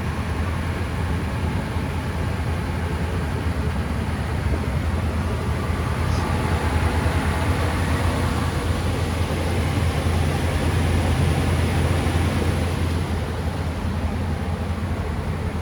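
1957 Ford Thunderbird's 312 Y-block V8 idling steadily and smoothly.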